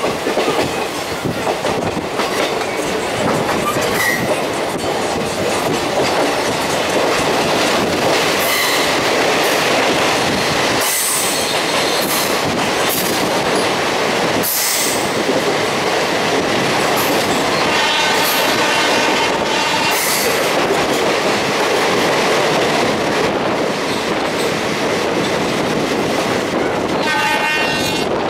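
Indian Railways passenger train running over the rails, loud and steady with rail clatter, heard from an open coach doorway and partly inside a tunnel. A high pitched note sounds twice, for about two seconds near the middle and briefly near the end.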